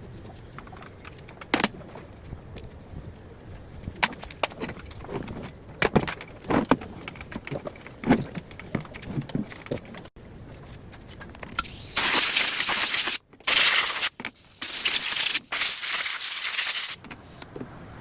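Metal tools and engine parts clinking and clanking in scattered knocks, then, from about twelve seconds in, four or five loud bursts of hissing that start and stop abruptly.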